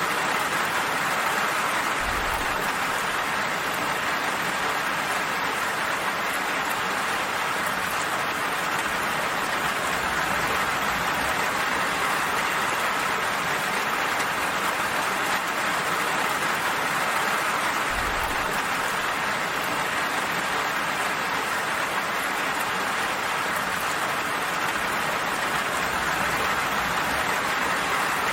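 Steady rain falling, an even hiss with no let-up. Brief faint low rumbles come about two seconds in and again about eighteen seconds in.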